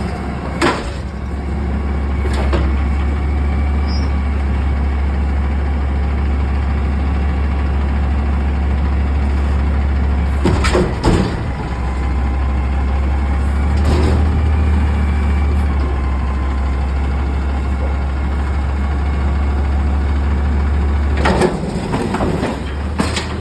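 Front-load garbage truck's diesel engine running steadily during a pickup, with several short knocks and bangs from the lift and container at intervals.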